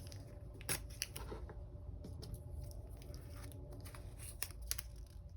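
Paper planner stickers being peeled and pressed onto a page: faint paper rustling with a few sharp ticks.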